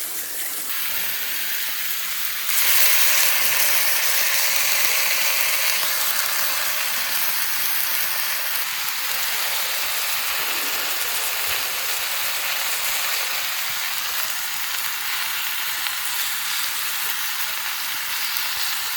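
Seasoned chicken sizzling as it fries, a steady hiss that jumps louder about two and a half seconds in.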